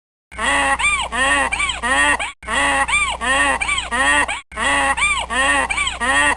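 Waterfowl honking: quick runs of about five rising-and-falling honks. The same two-second stretch of calls plays three times over, with short breaks between.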